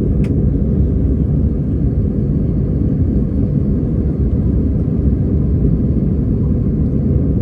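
Steady low rumble inside the cabin of an Airbus A320-214, its CFM56 engines and airflow heard from a seat near the back of the plane during the takeoff and climb.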